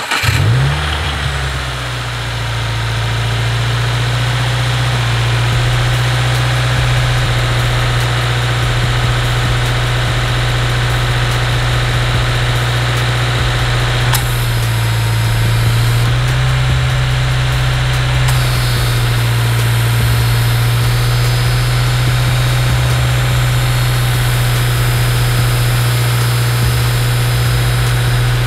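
Subaru WRX's turbocharged 2.0-litre flat-four starting for the first time after an air-oil separator install. It catches at a high fast idle that settles within a couple of seconds, then idles steadily, dipping briefly about halfway through. It runs normally, with nothing amiss in how it sounds.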